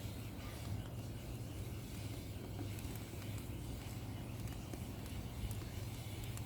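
Small pine kindling fire burning, with sparse faint crackles and pops over a steady low background hum.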